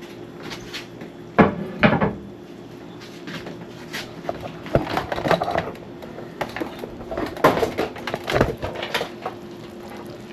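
Kitchen clatter: a series of knocks and clinks from pots, dishes or utensils being handled, the loudest about a second and a half in and again near eight seconds, over a faint steady hum.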